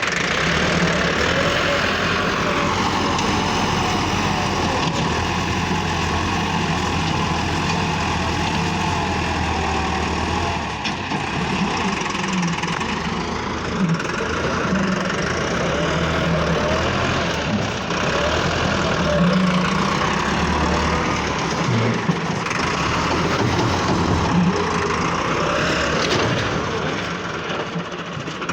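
Massey Ferguson tractor engine running steadily, its pitch easing down and rising again more than once.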